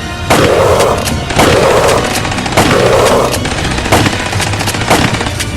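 Rapid gunfire, many sharp shots in quick succession with a few heavier bursts spaced about a second apart, most likely a machine-gun sound effect laid over a toy-blaster battle.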